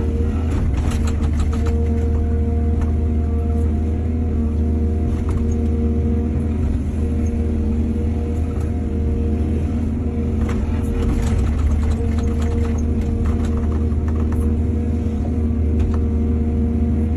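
Diesel excavator engine running steadily with a deep hum. Spells of knocking and clatter come near the start and again about ten seconds in.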